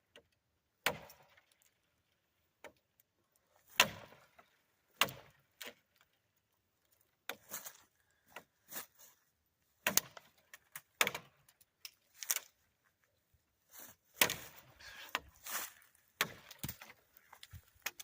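Maxace Vortex folding knife chopping into small oak branches: a string of sharp, irregular strikes, some single and some in quick clusters, the loudest about four seconds in.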